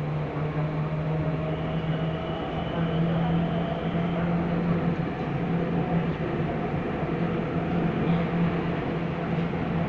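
Athens Metro Line 1 electric train running along the track, heard from inside the carriage. There is a steady rumble of wheels on rail and a steady motor hum. A faint whine rises gently in pitch over the first few seconds.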